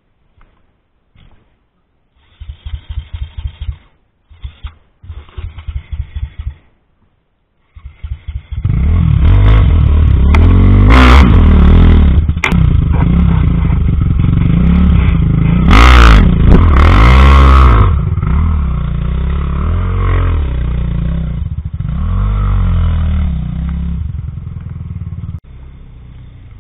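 Off-road enduro motorcycle engine being cranked in three short, pulsing start attempts that do not catch. About eight seconds in it fires and runs loudly, revving up and down, with a few sharp clattering knocks.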